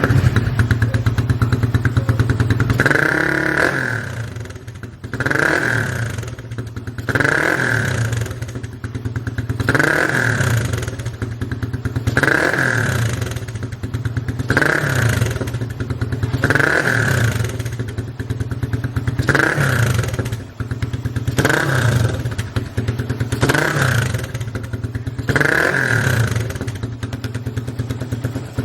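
Suzuki Raider R150's single-cylinder four-stroke engine, breathing through a VMAX Stage 2 conical exhaust with its silencer insert fitted, idling and blipped repeatedly. It makes about a dozen short revs, roughly every two seconds, each rising and dropping back to idle.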